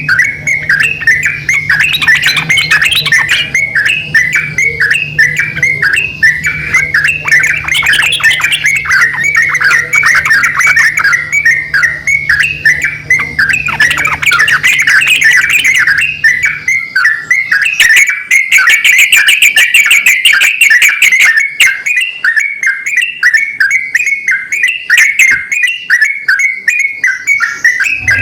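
Yellow-vented bulbuls, a male and a female, calling back and forth in a continuous run of quick chattering notes.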